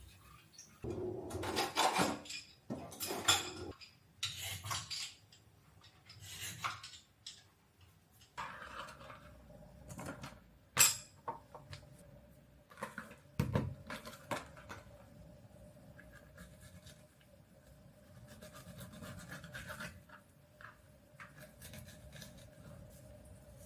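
Dishes and cutlery clattering and scraping as they are handled, with a run of rattles in the first few seconds and later single clicks and a knock. A steady low hum starts about a third of the way through.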